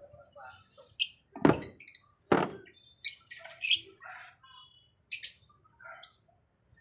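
Two loud, sharp knocks about a second apart, among short, high chirps and clinks.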